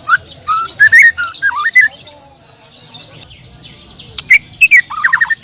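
White-rumped shama (murai batu) singing loud, whistled phrases that slide up and down, in one bout over the first two seconds and another starting about four seconds in, over a steady high twittering.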